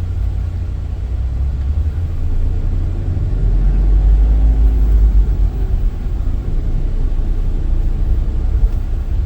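Van driving on the road, heard from inside the cabin: a steady low road and engine rumble that swells for a few seconds in the middle.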